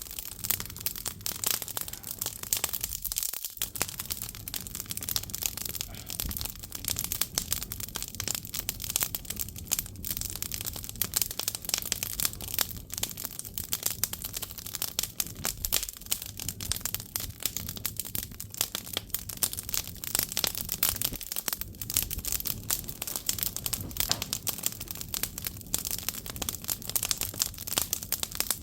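Firewood burning in an agungi (traditional Korean firebox), crackling steadily with dense, irregular small snaps and pops.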